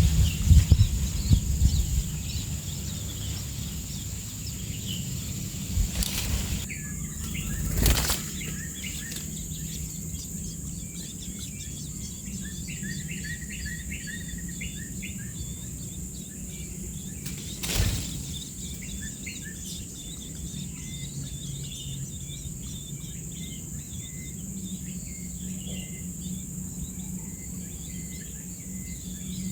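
Small birds making many short, high chirps over a steady high-pitched drone, broken by a few brief thumps.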